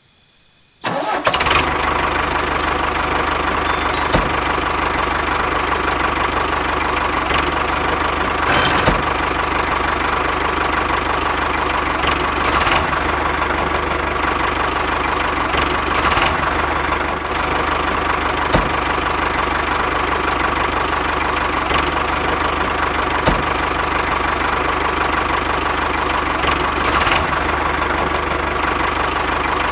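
Small motor of a DIY mini tractor starts about a second in and then runs steadily, with a few scattered clicks on top.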